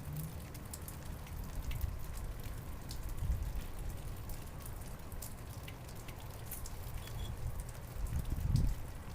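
Steady rain falling, with scattered sharp drop hits close by and a low rumble underneath that swells briefly near the end.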